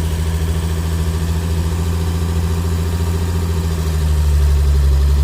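Old vehicle's engine idling steadily, a little louder about four seconds in. It is a cold-blooded engine, freshly started, that needs the choke pulled out for a while.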